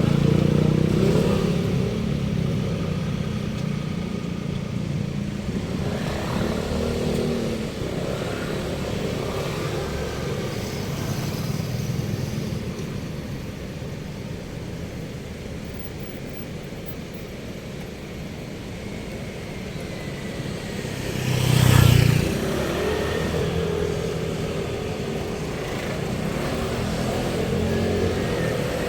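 Road traffic: cars and motorcycles running and passing, with a steady hum of engines and one vehicle passing loudly about three-quarters of the way through.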